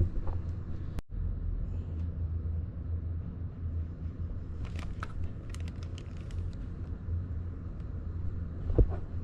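Honda Grom 125's single-cylinder engine running with a steady low rumble. A brief gap comes about a second in, a run of sharp clicks falls in the middle, and a thump near the end is the loudest sound.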